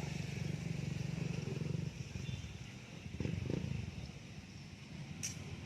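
A motor vehicle's engine running with a low pulsing note, which eases off about two seconds in, under a steady hiss. A sharp click comes near the end.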